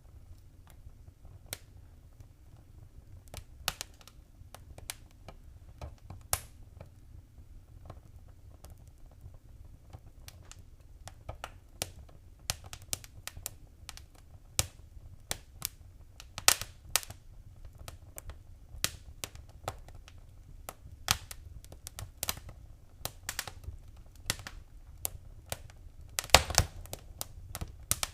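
Fire burning in a fireplace, crackling with irregular sharp pops and snaps over a low, steady rumble. The pops come sparsely at first, grow more frequent about ten seconds in, and a cluster of loud pops comes near the end.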